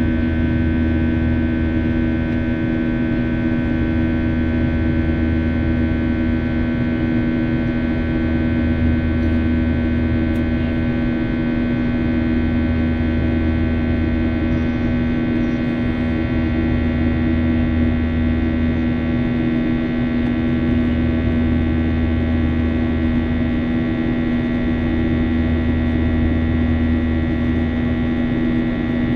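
Jet airliner engines heard in the passenger cabin during the climb after takeoff: a steady drone with several constant tones, and a low throb that swells and fades about every three seconds.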